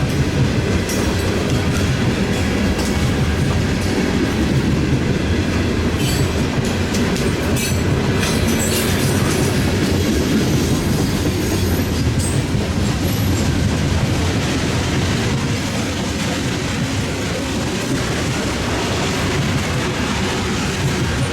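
Norfolk Southern freight train rolling past, its wheels clacking over the rail joints in a steady heavy rumble, with a few sharp high screeches from the wheels about six to nine seconds in.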